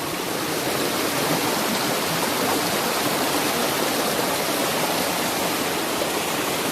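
Steady rush of falling and flowing water at a waterfall, an even, unbroken hiss of churning water.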